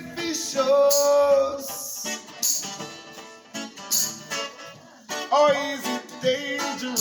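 Reggae song performed live on strummed acoustic guitar with a man singing, holding one long note about a second in.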